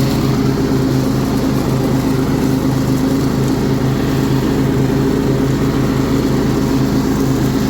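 1998 Kohler Command 16 hp engine on a riding lawn mower running steadily at constant speed while it mows.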